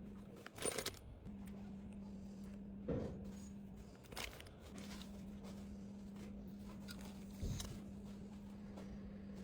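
Small items being handled and set down while packing an order, giving a few sharp clicks and knocks spread over several seconds, over a steady low hum.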